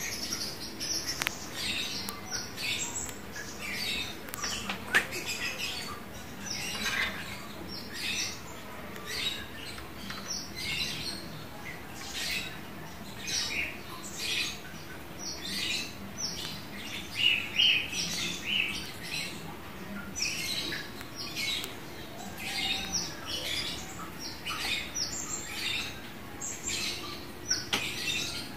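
Lovebird chattering in the long, unbroken 'ngekek' song: rapid, high-pitched chirps and squeaks strung together without pause. A single sharp click sounds about five seconds in.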